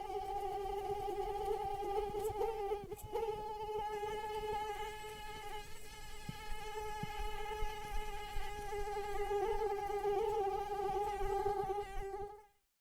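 Mosquito's wingbeat whine: a steady, high-pitched hum with a brief break about three seconds in, cutting off suddenly near the end.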